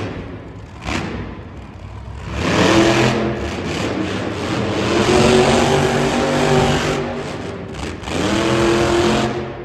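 Monster truck engine revving hard: the pitch climbs about two and a half seconds in, holds high for several seconds, then eases off before a second rev near the end.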